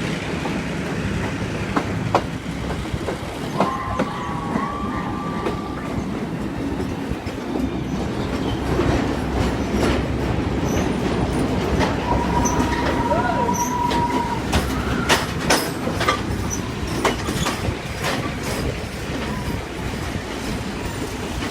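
Sri Lanka Railways passenger train hauled by an EMD Class M2c diesel locomotive, running with a steady low rumble and wheels clacking over rail joints. Two high steady wheel squeals come about 4 s and 12 s in, each lasting a couple of seconds. A quick run of sharp clacks follows around 15 s.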